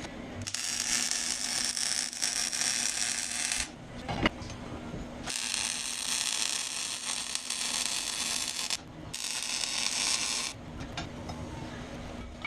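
Rapid mechanical ratcheting clatter in three bursts of a few seconds each, with one sharp click between the first two bursts.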